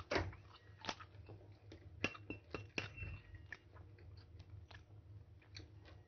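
Close-up chewing and biting of crisp green mango slices: a string of sharp wet crunches and mouth clicks, loudest in the first second, over a low steady hum.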